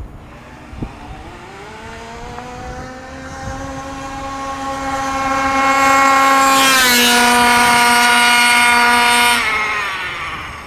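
HPI Baja 5B RC buggy's OBR engine at full throttle on a speed run. The engine note climbs steadily in pitch and loudness and is at its loudest from about six to nine seconds in. It drops sharply in pitch about seven seconds in, then falls away and fades near the end.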